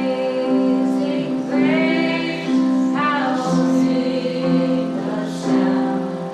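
A congregation singing a worship song, with a woman's voice prominent, over sustained keyboard chords.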